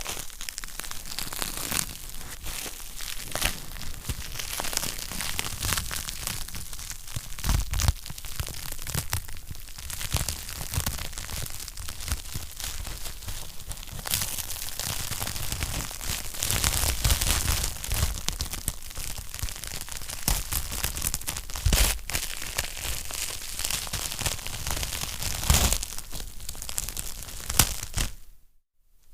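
Wood fire in a fireplace crackling steadily: a dense patter of small crackles with a few louder pops. The sound drops out briefly near the end.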